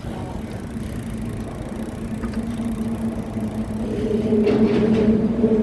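A motor vehicle's engine hum holds one steady pitch and grows louder from about four seconds in, over road and wind noise.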